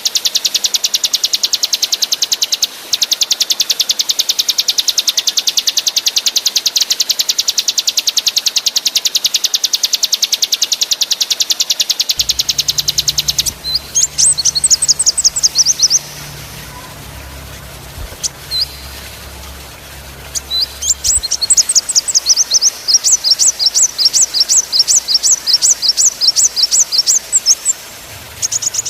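Small songbird singing a long, very fast, unbroken high trill for about the first half. It breaks off, then comes back in bursts of sharp, rapidly repeated notes after a short pause, the rapid-fire 'roll' used in bird-song training recordings.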